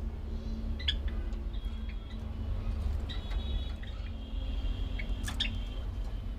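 Small birds chirping and calling: short high chirps, with a couple of sharper ones about a second in and near the end, and some held thin whistles, over a steady low rumble.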